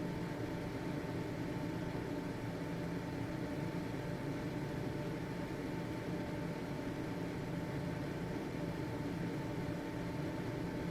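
Household ventilation fan running steadily: an even whirring rush with a faint constant whine on top and a low motor hum beneath.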